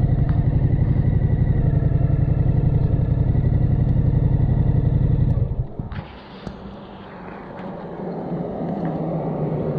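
Suzuki V-Strom 1050XT's V-twin engine idling with a steady, even pulse, then cut off abruptly about five and a half seconds in. A much quieter rushing noise builds afterwards.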